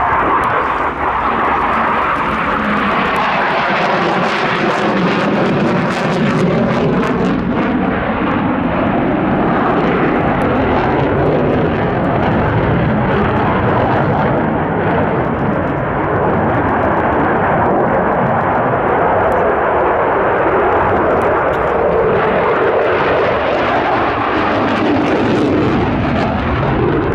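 Eurofighter Typhoon jet fighter flying a display pass, its twin EJ200 turbofans running loud and continuously. The pitch of the jet noise falls away in the first several seconds and rises again near the end.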